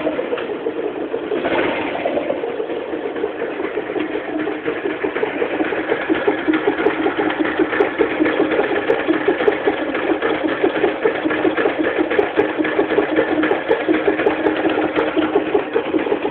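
Yamaha Jupiter MX single-cylinder four-stroke motorcycle engine idling just after starting, with a brief blip of throttle about a second and a half in. Through the fast, even beat of the idle runs the 'kluk kluk' knocking noise the owner is showing, the sign of a fault inside the engine.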